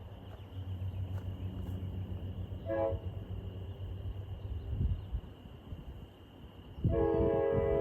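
Amtrak passenger train's diesel locomotive approaching with a steady low engine rumble. It sounds its multi-tone horn: a short blast about three seconds in, then a long, louder blast starting near the end.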